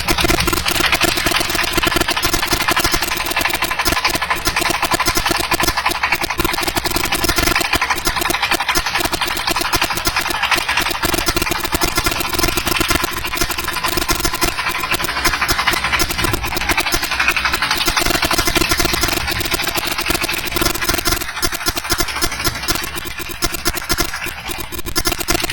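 Truck engine running steadily and loudly, with a slight dip in level near the end.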